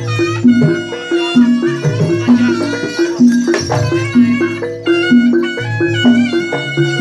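Live Javanese jaranan music: a repeating pattern of pitched gong-chime notes, with a reedy wind melody bending over it and drum strokes.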